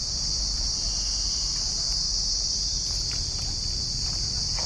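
Steady, high-pitched chirring of an insect chorus, unbroken throughout, over a low rumble.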